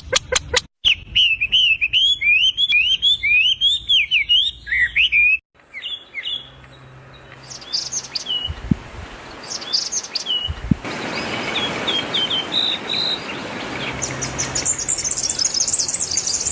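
Songbirds singing and calling in several short cuts: first a rapid warbling song, then scattered chirps over a steady hiss with two low thumps, and near the end a high, dense trill.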